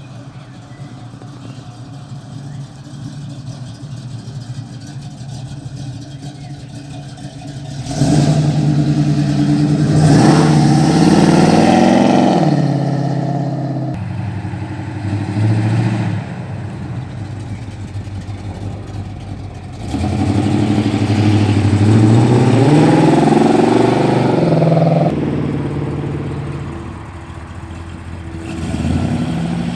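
Hot rod and custom car engines pulling away, revving up and dropping back in pitch. A quieter engine hum first, then two loud passes, one about eight seconds in and one about twenty seconds in.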